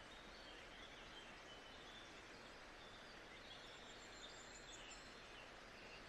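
Faint, steady nature-sound ambience: an even hiss with scattered faint, short, high-pitched bird chirps.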